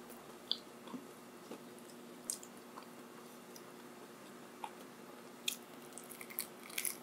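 A person quietly chewing and biting a Jollibee fried pie, with soft, scattered mouth clicks and a brief flurry of them near the end.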